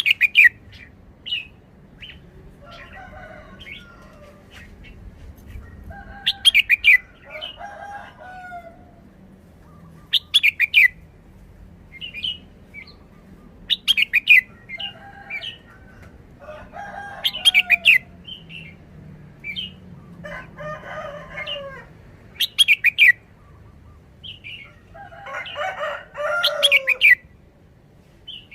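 Red-whiskered bulbul singing short, loud phrases every few seconds, with roosters crowing in the background.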